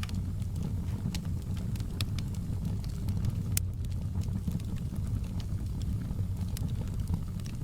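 Fire burning in a fireplace: a steady low rumble of flames with scattered sharp crackles and pops, one louder pop about three and a half seconds in.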